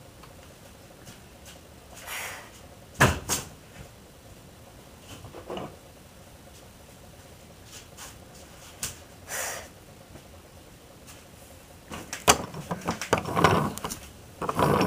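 Scattered knocks and handling noises in a small room, with a sharp knock about three seconds in and a busier patch of clicks and rustling near the end.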